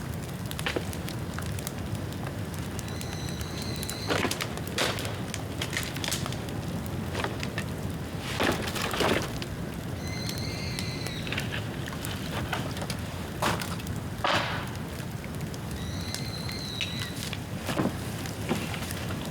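Bamboo bonfire burning: a steady low rumble of the fire, dense crackling and several loud sharp pops as bamboo bursts in the heat. A short high whistle recurs every few seconds.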